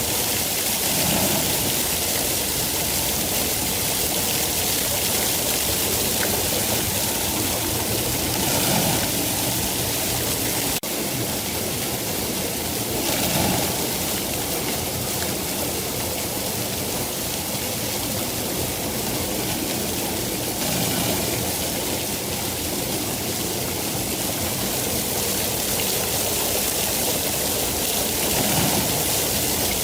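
Steady rain falling, an even rushing hiss with a few gentle swells, and a single faint click about eleven seconds in.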